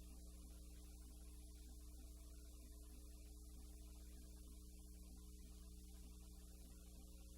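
Near silence: a low steady mains hum with a faint hiss, the empty sound track of a silent film transfer.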